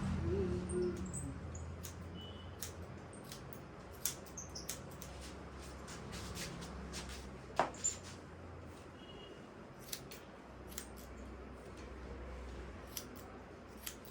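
Hairdressing scissors snipping hair during a haircut: scattered, irregular snips over a faint low steady hum.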